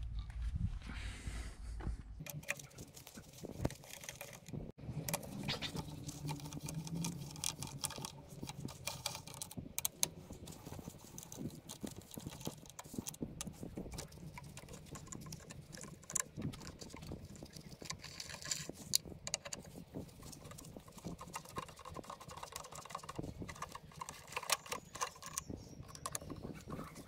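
Irregular clinks, clicks and knocks of metal hand tools and engine parts being handled while a motorcycle engine is taken apart.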